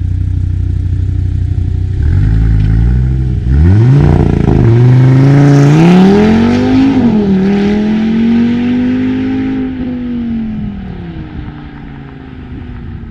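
Audi RS3's turbocharged five-cylinder engine through a Milltek exhaust, accelerating hard. Its note climbs, drops briefly twice at gear changes and climbs again. It then eases off and fades near the end.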